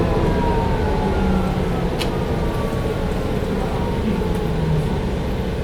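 Inside a Mercedes-Benz O405 N1 low-floor city bus on the move: steady running noise with a whine that falls slowly in pitch, and a sharp rattle-like click about two seconds in.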